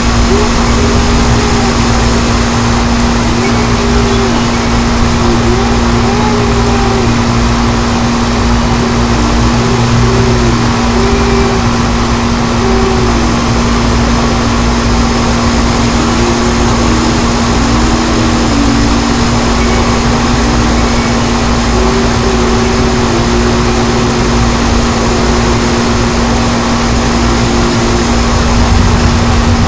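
Strong gusty wind rumbling and buffeting on the microphone, with a steady hum and a faint wavering whistle-like tone.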